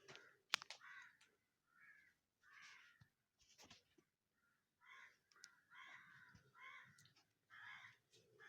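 Crows cawing, faintly and repeatedly, in short harsh calls about once a second, some closer together.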